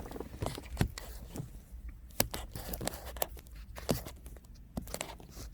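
Close-up handling noises: scattered irregular clicks, taps and light rustles, as of objects and packaging being moved about by hand.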